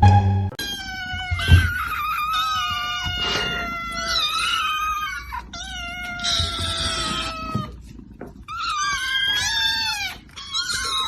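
Domestic cat yowling in two long, drawn-out wails, the first lasting several seconds, the pitch sliding slowly downward through each.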